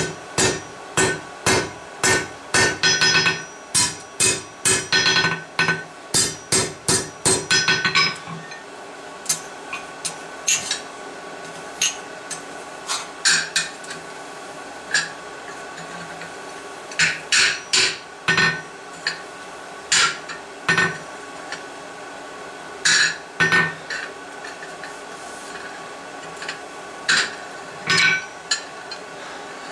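Blacksmith's hammer striking hot steel on an anvil: a quick, steady run of blows for about the first eight seconds, then sparser single blows and short groups. A steady hum runs underneath.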